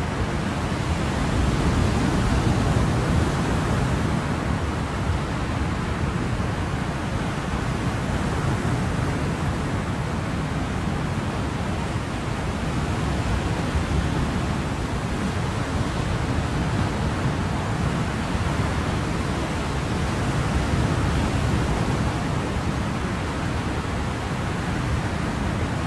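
Ocean surf: a steady wash of waves with gentle slow swells in loudness.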